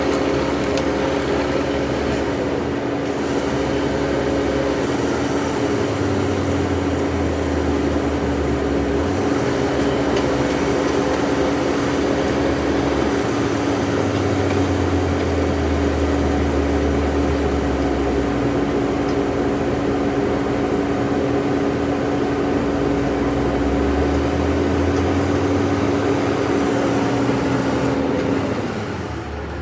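Diesel engine of a heavy earthmoving machine running at a steady speed, with a low rumble that swells and fades three times as it works. It drops away suddenly near the end.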